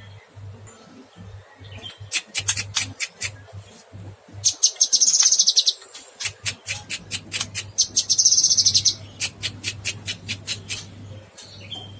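Cucak kinoy bird singing loudly: fast runs of sharp, clicking notes, broken twice by a buzzy trill about a second long.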